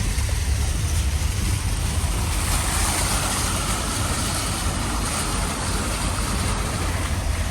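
Vehicle running with a steady low rumble under a constant rushing noise.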